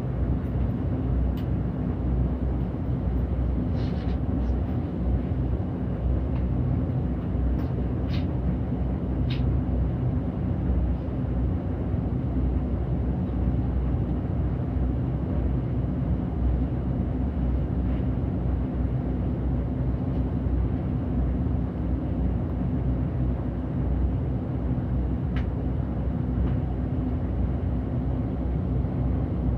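City bus running along the road, heard from inside the cabin: a steady low rumble of engine and road noise with a constant hum, and a few faint ticks.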